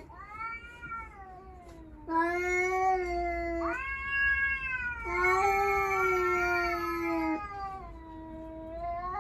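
Cats yowling in a territorial standoff: a string of long, drawn-out wails that rise and sag in pitch, with two voices overlapping in the middle.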